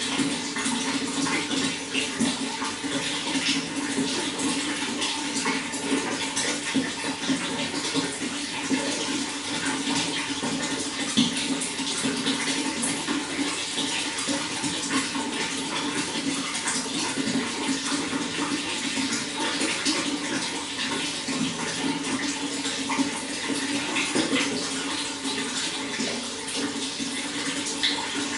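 Running water flowing steadily, with a dense patter of small splashes.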